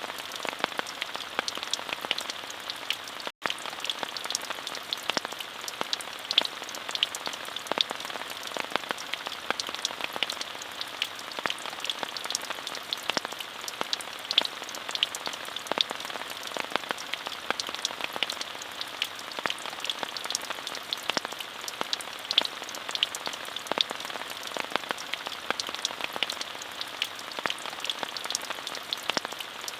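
Steady, even rain with many individual drops ticking, and a split-second drop-out of all sound about three seconds in.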